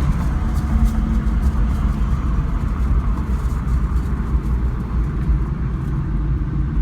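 1997 Camaro Z28's freshly rebuilt LT1 V8 running with a steady low rumble as the car drives.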